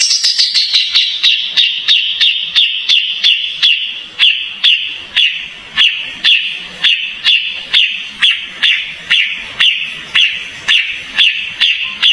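A kapas tembak songbird calling a long, even series of short, sharp high chirps, about two and a half a second, each dipping slightly in pitch.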